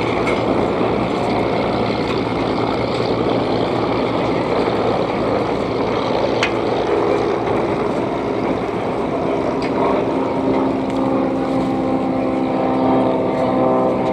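Light propeller plane's piston engine running loud and steady, close by; about ten seconds in, a clear steady engine tone comes up over the noise.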